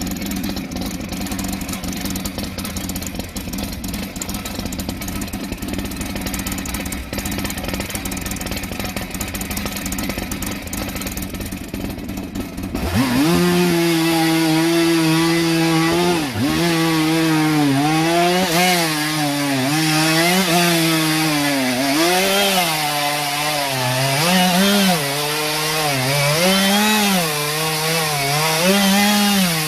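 Gasoline chainsaw idling steadily, then revving up about 13 seconds in and cutting into a paulownia log. Its engine note sags and recovers again and again as the chain bites into the wood.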